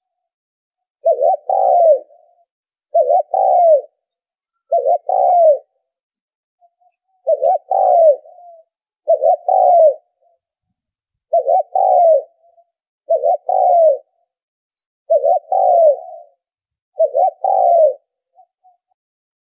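Spotted dove cooing: a short phrase of two or three notes, the last one falling, repeated about every two seconds, ten times. It is a lure call played to stir decoy doves and draw wild ones to a trap.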